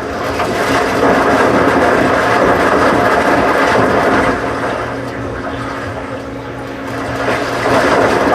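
Washing machine running with water rushing through it over a steady motor hum, the rush swelling about a second in and again near the end.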